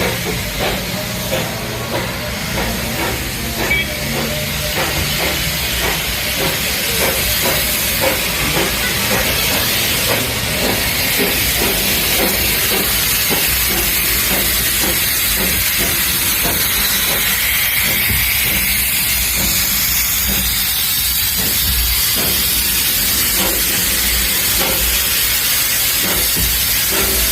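Darjeeling Himalayan Railway steam locomotive letting off steam in a steady, loud hiss, with a low rumble and faint irregular clicks underneath.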